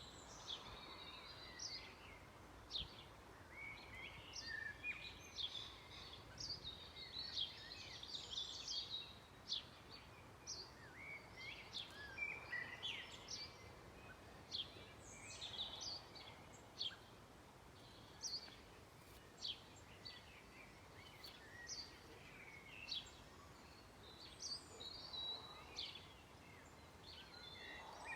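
Several songbirds singing together in a dusk chorus: a dense run of overlapping short, high chirps and trills that never lets up.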